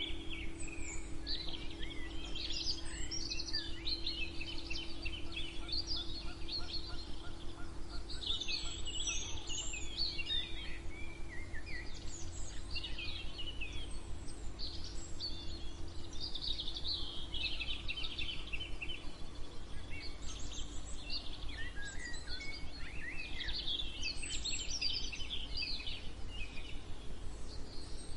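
Several songbirds chirping and singing over one another in a continuous dawn-chorus mix of quick chirps and short warbled phrases. A steady low hum and rumble run underneath.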